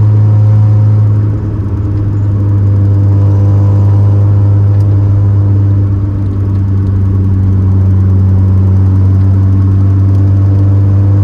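Turbocharged 13B two-rotor rotary engine of a 1988 Mazda RX-7 running at a steady cruise, a constant drone with no change in pitch. The level dips briefly about a second and a half in and again around six seconds in.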